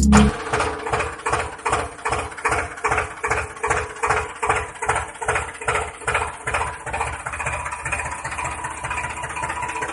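Tractor engine chugging at an even beat of about three pulses a second, the beats blurring into a steadier run near the end.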